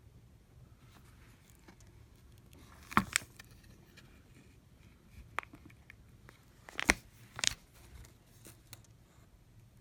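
Scattered small clicks and taps from handling the opened iPad mini and small repair tools on a work surface, with two sharper clicks about three seconds in and the loudest pair around seven seconds in.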